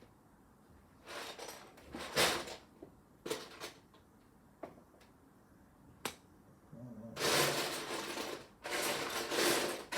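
Loose plastic Lego pieces being sifted through by hand: short clicking, rattling bursts, a couple of single clicks, then longer stretches of rattling near the end.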